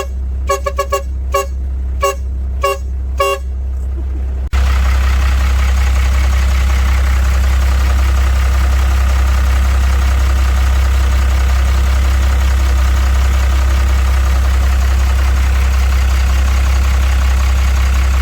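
A vehicle horn sounding in quick short toots, in small groups, for the first few seconds. It is cut off abruptly by a steady, loud engine idle with a deep hum that runs on unchanged.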